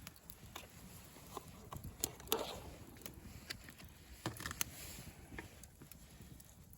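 Irregular sharp clicks and taps over a low rumble of wind on the microphone, the loudest tap about two and a half seconds in.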